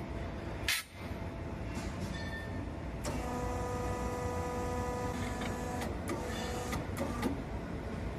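Factory production machinery running with a steady low rumble. A machine whine starts about three seconds in and stops about three seconds later, and a few sharp metallic clanks follow near the end.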